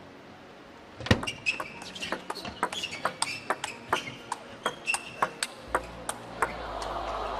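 Table tennis ball being struck back and forth in a rally, clicking off bats and table about four or five times a second from about a second in. A crowd's noise swells near the end as the rally finishes.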